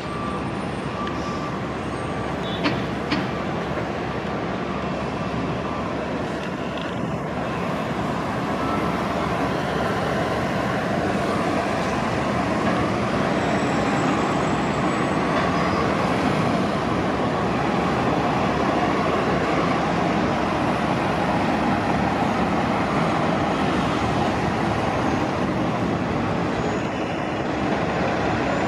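City transit buses running and moving around a bus terminal: a steady engine and traffic din that grows a little louder about eight seconds in. A couple of short sharp knocks come about three seconds in.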